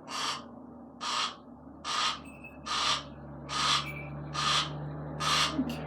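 Barn owl hissing: a string of about seven harsh, breathy hisses, roughly one a second.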